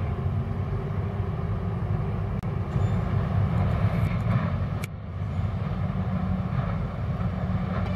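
Steady low rumble of outdoor background noise, with a few faint clicks in the middle and a brief drop about five seconds in.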